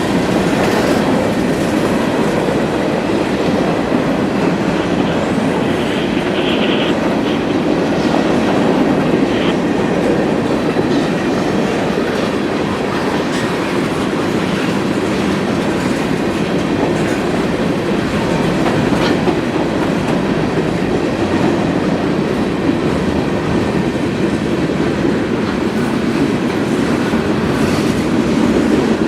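CSX freight train cars rolling past, their steel wheels running on the rails with a steady, loud, even noise.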